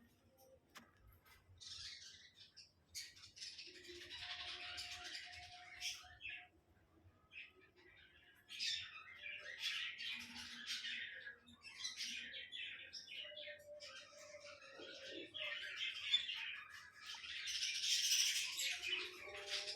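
Pet budgerigar chattering and warbling in long, scratchy runs of chirps, with short pauses between three bouts.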